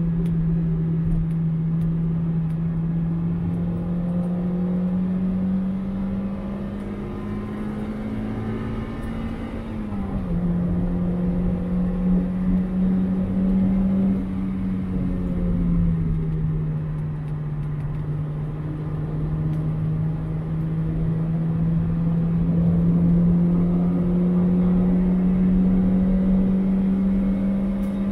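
2001 Mazda MX-5's 1.8-litre four-cylinder engine pulling at high revs on track. Its pitch climbs slowly, drops sharply about ten seconds in at a gear change, climbs again, eases down around fifteen seconds, then climbs slowly again, over steady road and tyre rumble.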